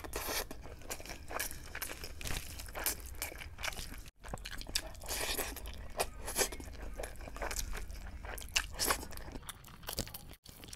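Close-miked, open-mouthed chewing and lip-smacking of chicken biryani eaten by hand, with the squish of fingers scooping the rice. The sound cuts out briefly twice, about four seconds in and near the end.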